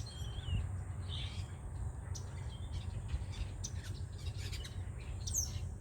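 Small songbirds chirping: scattered short chips and calls, with a high call sliding quickly downward near the end, over a steady low rumble.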